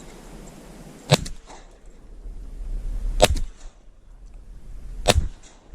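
Three shotgun shots, about two seconds apart.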